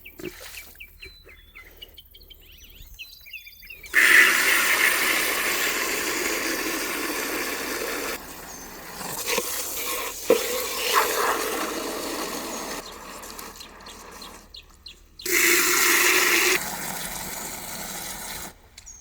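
Garden hose spraying water into a plastic poultry waterer to rinse it out. The spray starts suddenly about four seconds in, eases off and changes about halfway, and comes on hard again briefly near the end.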